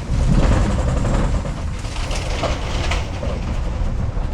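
Safari ride truck driving along the dirt track: steady low engine and road noise from the vehicle carrying the riders.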